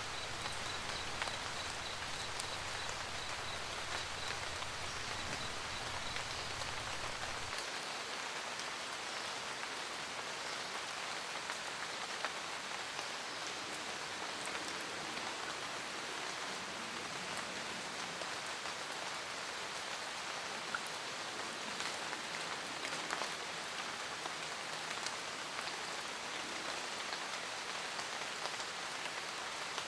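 Steady rain pattering on a roof, with scattered individual drops ticking. A low rumble underneath cuts off about seven seconds in.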